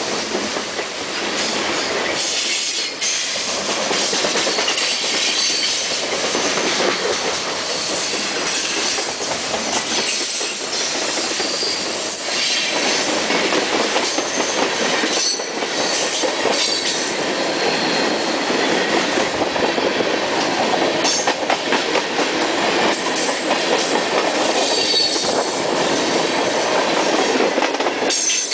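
Freight cars rolling past at close range, open-top hoppers and then tank cars: the steady rumble and rattle of steel wheels on rail, with scattered clacks and short bouts of high wheel squeal.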